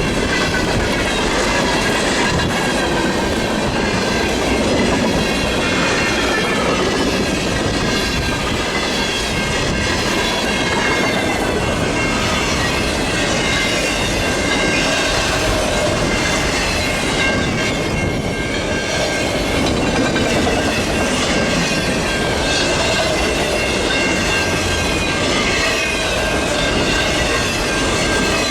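Freight cars of a long manifest train rolling past at track speed: a steady rumble of steel wheels on the rails with clickety-clack and faint high wheel squeal.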